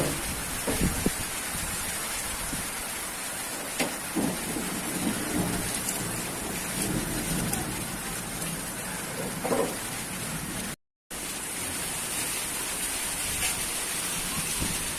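Heavy monsoon rain falling steadily, a continuous hiss with a few faint knocks. The sound cuts out completely for a moment about eleven seconds in.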